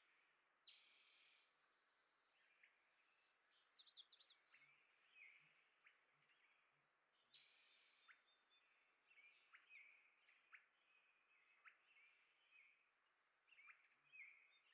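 Faint chirps and calls of small songbirds, with short sharp chirps repeated throughout. There are buzzy calls about one and seven seconds in, and a quick run of falling notes near four seconds.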